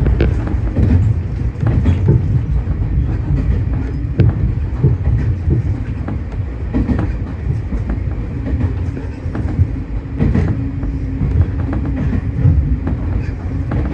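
Tobu 30000 series electric train running between stations, a steady low rumble with the wheels clicking over rail joints. A steady hum joins in for a few seconds in the second half.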